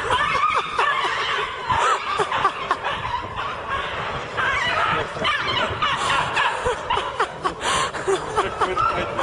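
Laughter with many short, high squeals.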